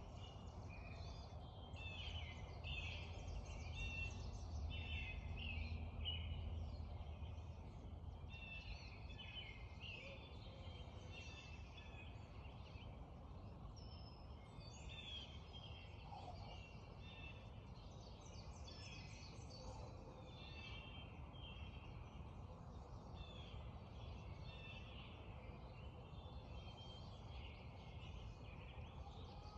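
Dawn chorus of several songbirds singing many short, overlapping repeated phrases, over the steady sound of flowing creek water and a low rumble that eases after the first several seconds.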